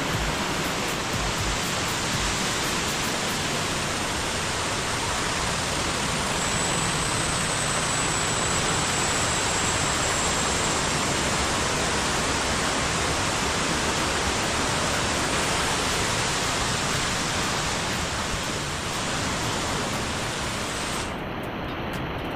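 Steady rushing water from a small waterfall or cascade, an even hiss with no break; the sound turns duller near the end.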